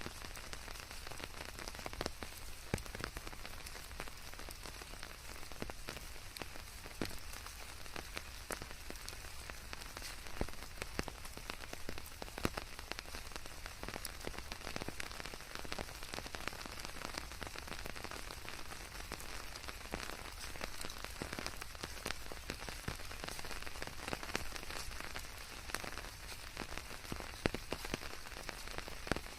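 Steady rain falling, with many individual drops tapping sharply through an even hiss, mixed with white noise.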